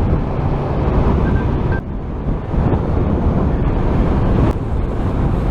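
Wind rushing over a helmet-mounted microphone with the motorcycle's engine and road noise underneath, steady at motorway speed.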